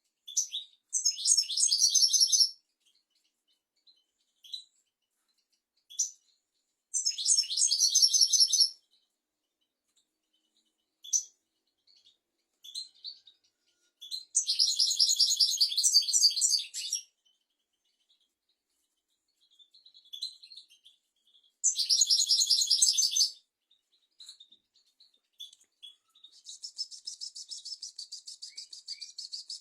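European goldfinch singing: dense, high twittering phrases one to three seconds long, separated by short single call notes. Near the end comes an evenly pulsed, buzzy trill.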